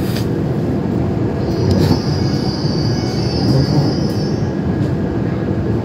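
E7-series Shinkansen rumbling as it slows into a station, heard from inside the car, with a high-pitched squeal lasting about three seconds in the middle as it brakes towards a stop.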